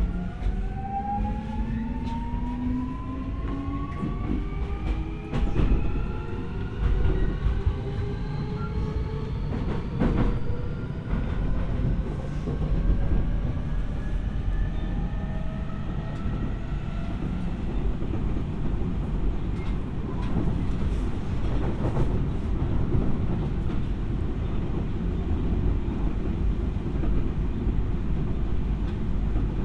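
Keio 1000 series electric train accelerating: the inverter and traction motors whine in several tones that climb steadily in pitch for about the first half and then fade out as power comes off. Underneath is a steady rumble of wheels on rail, with a few sharp clacks over rail joints.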